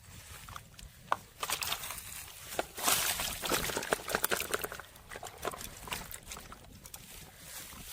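Water splashing and sloshing in irregular bursts, busiest for a few seconds about a second and a half in.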